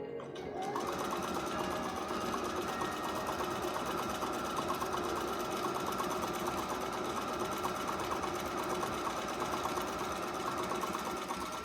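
Bernina Virtuosa 150 sewing machine running: the motor whirs up in the first second, then a fast, even stitching rattle that stops near the end.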